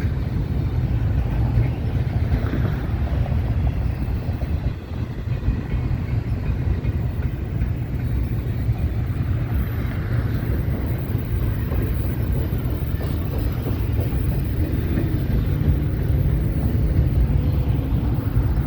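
Double-stack intermodal freight cars rolling past, a loud, steady rumble of steel wheels on the rails.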